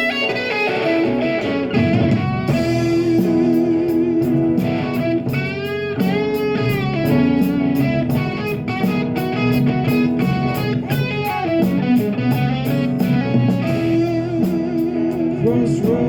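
Live band playing a slow song's instrumental intro: an electric guitar melody with bent, wavering notes, with drums and a steady cymbal beat coming in a couple of seconds in.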